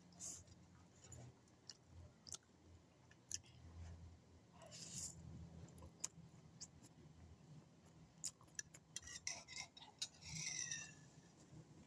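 Faint eating sounds: chewing with scattered light clicks of cutlery on a plate and a few brief breathy bursts, and a short falling squeak near the end.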